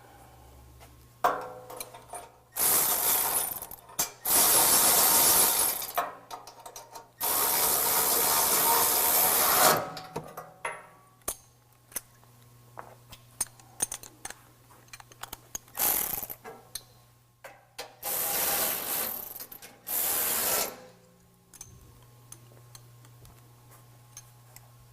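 Power ratchet running in bursts of up to about two and a half seconds, tightening the bolts of a truck bumper's support brackets, with scattered clicks and taps between bursts over a faint low hum.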